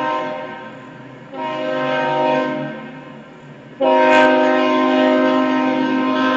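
Locomotive air horn sounding in repeated blasts: one fading out at the start, a second of about a second, and a long third blast that begins near the end.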